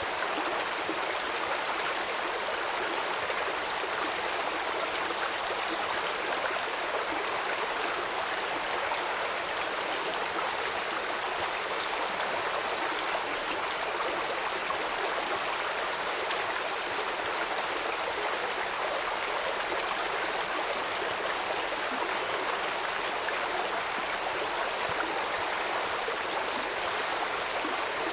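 Steady rush of a flowing stream, an even, unbroken water sound. A high, thin chirp repeats about twice a second through the first half, stops, and comes back near the end.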